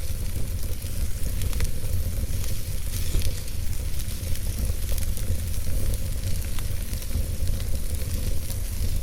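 Logs burning in a fireplace: a steady low rumble of flames under a hiss, with scattered sharp crackles and pops.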